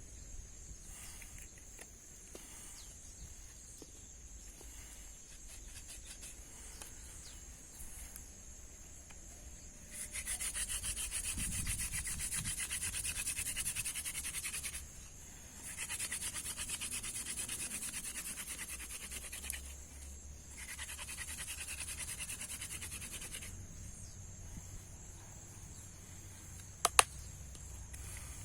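Rapid rubbing strokes in three bouts of about three to five seconds each, from working to light a fire without matches. Two sharp clicks follow near the end.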